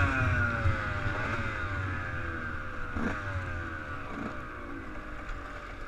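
Motocross bike engine running, its note slowly falling in pitch and fading as the bike pulls away.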